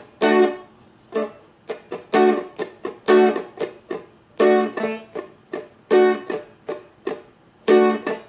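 Seagull Merlin four-string strumstick played in a strum pattern: full ringing chord strums alternating with short muted hits, the strings pressed to damp them, in an uneven repeating rhythm.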